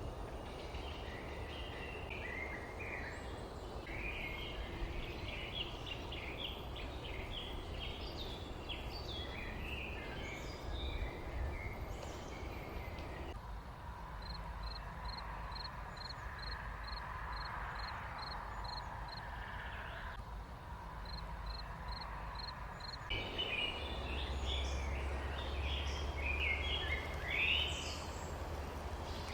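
Several birds chirping and twittering in quick, overlapping calls over a steady low background rumble. Partway through the chirping drops away for several seconds and a short high note repeats evenly about twice a second, then the chirping returns.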